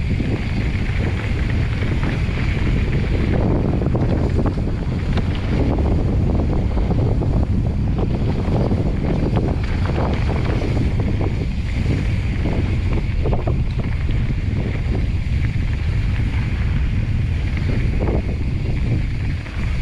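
Wind rushing over the camera microphone as a mountain bike rides fast down a rough trail, with frequent short clatters and rattles from the tyres and bike over rocks and bumps.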